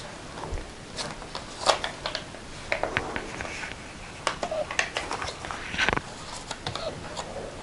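Paper pages and card of a handmade junk journal rustling and crinkling as they are handled and turned, with scattered small clicks and taps.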